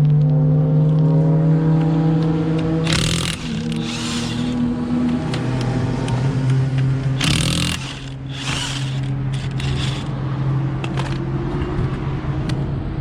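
Race car engines running at the speedway, a steady engine note that shifts in pitch a few times, with several short hissing bursts over it.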